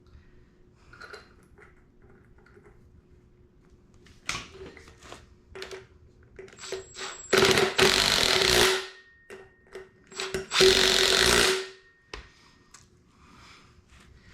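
A handheld power tool run in two bursts of a little over a second each, with a second's pause between them. Scattered clicks and clanks of tools on metal come before the bursts.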